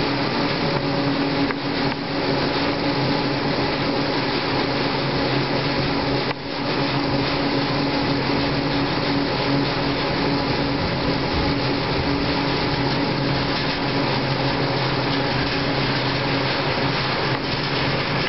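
Aerial cableway's steel ropes running over the sheaves of a support pylon: a steady hum at a constant pitch over a broad hiss.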